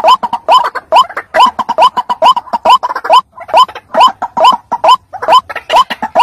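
White-breasted waterhen calling: a fast, steady run of short upward-gliding 'kru-ak' notes, about two or three a second.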